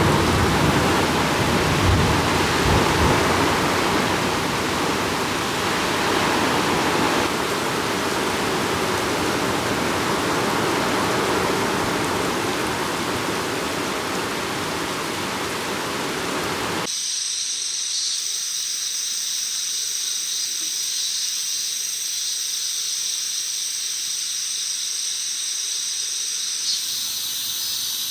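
Heavy rain pouring steadily. About two-thirds of the way through it cuts off abruptly, and a quieter, steady high-pitched hiss with several high, even tones takes over.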